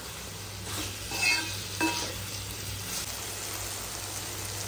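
Chicken pieces sizzling as they fry in masala in a metal kadai, stirred with a steel ladle. The ladle scrapes and clinks against the pan a few times in the first two seconds, then only the steady sizzle goes on.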